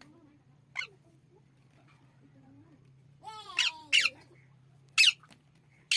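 Parrot calling in short, sharp screeches: a faint one about a second in, then a run of loud calls in the second half. A low steady hum lies underneath.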